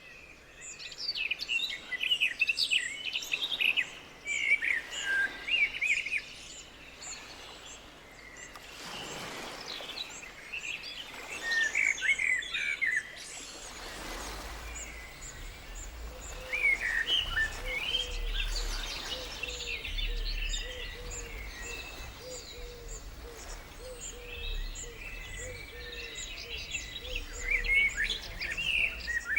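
Several small birds chirping and twittering, with overlapping calls in bursts. A series of lower, evenly spaced notes repeats through the second half.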